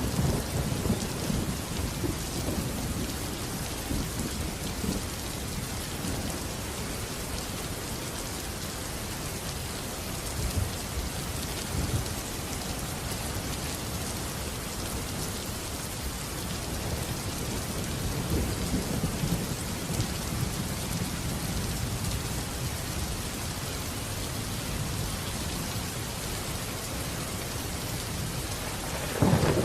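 Steady heavy rain with rolling thunder: a rumble dying away over the first few seconds, a softer roll about two-thirds of the way in, and a louder thunderclap breaking in near the end.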